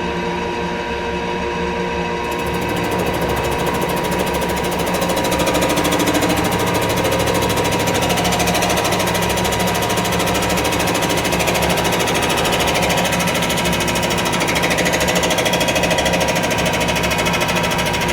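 Rottler F10XS CNC boring and surfacing machine cutting the left bank of a small-block Chevrolet engine block. The spindle runs with a steady whine, and about two seconds in the cutter bites in and goes on with a fast, even buzzing cut.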